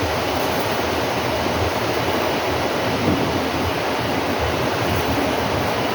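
Steady rushing noise of flowing water, even throughout with no distinct events.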